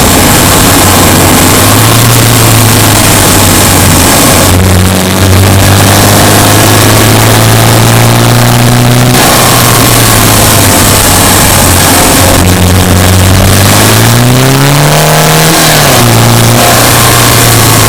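A Subaru Impreza Sport's flat-four engine pulls under load while driving. Its pitch climbs slowly, drops back, then climbs again and falls sharply near the end. A steady hiss of road noise runs underneath.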